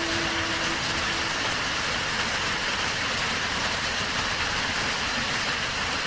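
Steady rush of a mountain river's flowing water, an even hiss with no distinct events.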